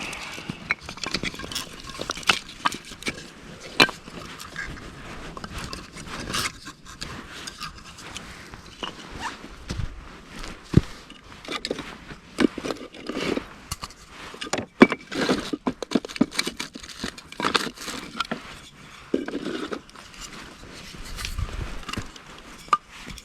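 Irregular knocks, clicks and scrapes, as of objects being handled and set down, with a few sharper knocks standing out.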